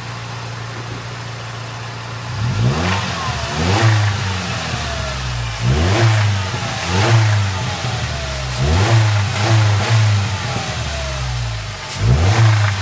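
2005 Ford Ranger's 2.3-litre four-cylinder engine idling, then revved up and let fall back four times. The owner suspects a lifter tick and calls the noise a little bit of a tick or a knock.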